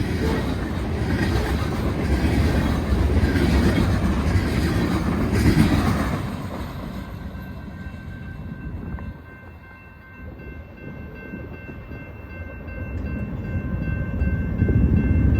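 Union Pacific lumber freight train's cars rolling past with wheels clattering over the rail joints, fading away about six seconds in as the train recedes. A low rumble builds near the end.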